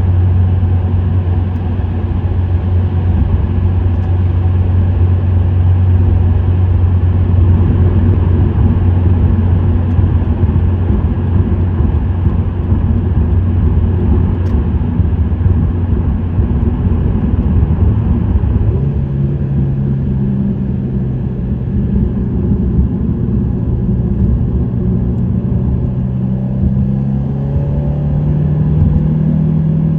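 Subaru WRX STI's turbocharged EJ20 flat-four, breathing through an STI Performance muffler, driving at a steady low drone. About two-thirds of the way through, the engine note jumps to a higher pitch and climbs slowly, then falls away right at the end.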